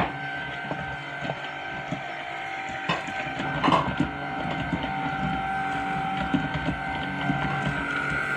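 Tineco A10 Spartan cordless stick vacuum running: a steady motor whine with two held tones, broken by a few short clicks and a brief rattle a little past the middle.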